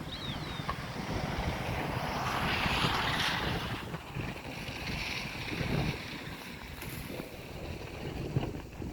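Wind buffeting the microphone in uneven gusts, with a stronger gust of rushing air a few seconds in. A short, high, falling whistle sounds just after the start.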